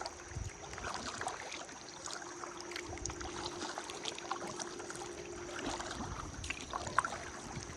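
Kayak paddling on a river: the paddle dipping and splashing with water trickling and dripping, a few slightly louder splashes among them. A faint steady hum sits underneath and fades out about three-quarters of the way through.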